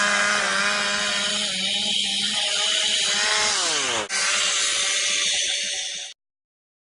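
Chainsaw engine running at high revs with a rasping hiss over it. Its pitch slides down about three to four seconds in, it breaks off for an instant, then runs on and cuts off suddenly about six seconds in.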